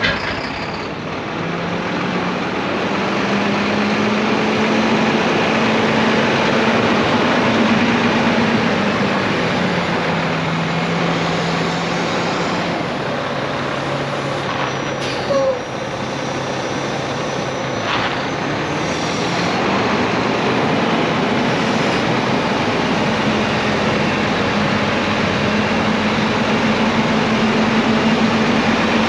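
The diesel engine of a 2012 Volvo VNM day cab tractor running, its note dropping a step or two about a third of the way in and rising again a little later, as the engine speed changes. A short sharp noise sounds about halfway.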